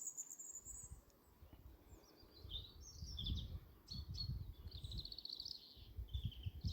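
Small songbirds chirping and twittering, in quick repeated short notes, over an uneven low rumble.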